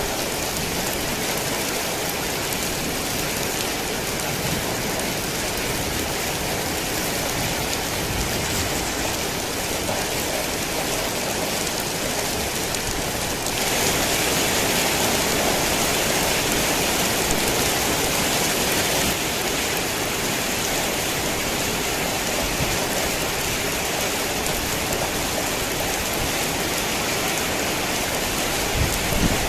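Heavy rain falling steadily, an even hiss that grows louder and brighter for several seconds around the middle. A low rumble of thunder begins right at the end.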